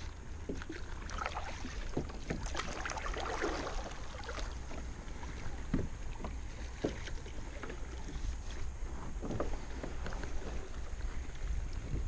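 Kayak paddle dipping and splashing, with water dripping off the blades in irregular strokes. A low wind rumble on the microphone runs underneath.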